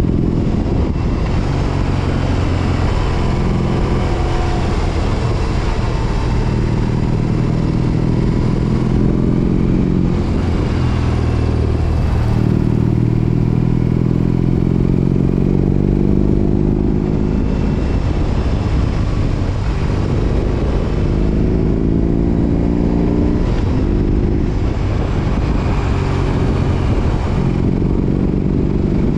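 BMW R18 Roctane's large boxer twin running through Freedom Performance 4.5-inch aftermarket mufflers while riding. The exhaust note is loud and steady, its pitch climbing and then dropping back several times.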